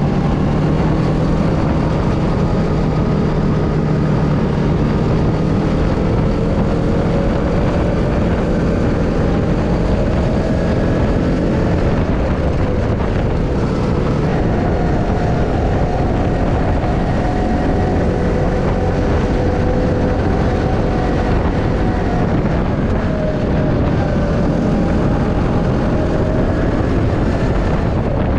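An engine running steadily over a constant rushing noise, its pitch drifting slowly up and down.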